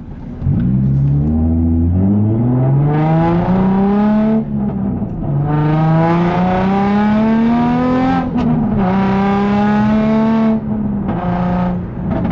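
Nissan 350Z's 3.5-litre V6 through a cheap aftermarket exhaust, loud, accelerating through the gears. The pitch climbs and drops back at upshifts about four and eight seconds in, then holds steady before easing off near the end.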